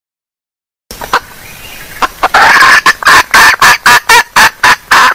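Junglefowl hen clucking, used as a lure call: after silence it starts about a second in, then becomes a fast series of loud clucks, about four a second.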